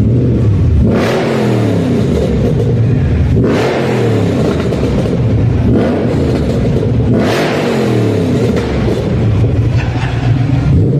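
Tuned car engine revved hard, its pitch rising sharply and falling back to idle: three big blips about a second in, about three and a half seconds in and about seven seconds in, and a smaller one near the end.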